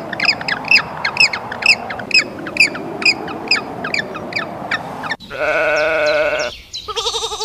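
A rapid run of short, high, falling squeaks, about two to three a second. About five seconds in, this cuts off abruptly and a sheep bleats twice: one long baa, then a shorter, wavering one.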